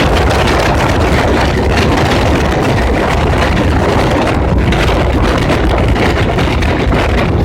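Fareed Express train passing close by: a loud, steady rumble with heavy low end.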